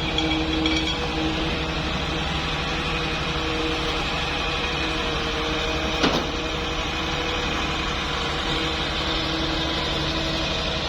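Excavator's diesel engine running steadily, with one sharp knock about six seconds in.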